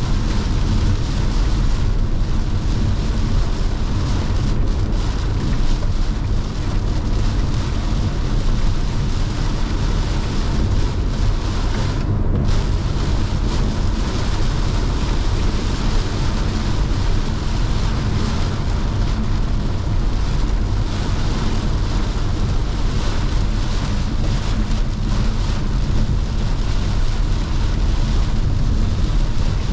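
Car driving in heavy rain on a wet road: steady tyre and road noise with rain and wind hiss. The hiss drops out for a moment about twelve seconds in.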